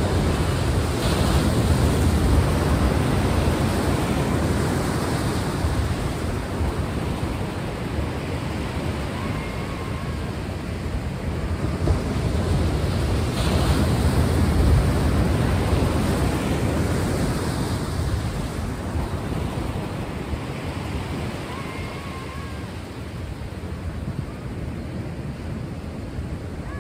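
Sea waves washing on a shore: a steady rush of surf that swells and eases slowly, loudest near the start and again about halfway through.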